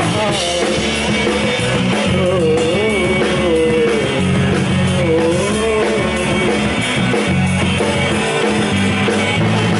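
Live rock band playing a song: electric guitars, bass guitar and drum kit, with a wavering melodic line over a steady low end.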